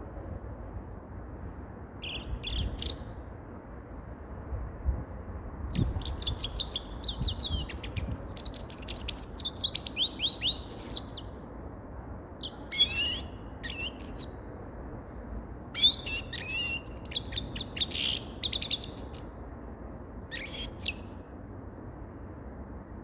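Grey-headed goldfinch singing in bursts of rapid high twittering and chirps. The longest phrase runs about five seconds, with shorter bursts between pauses, over a steady low background noise.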